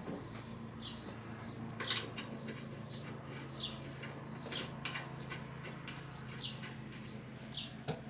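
A small bird chirping over and over, short high chirps falling in pitch about two a second, with a few sharp clicks, the loudest about two seconds in, over a steady low hum.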